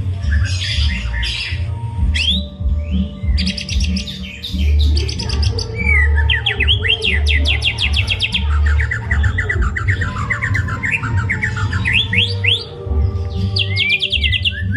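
White-rumped shama (murai batu) singing a long, varied song of fast trills, rapid runs of repeated notes and rising whistles, packed with imitated phrases from other birds.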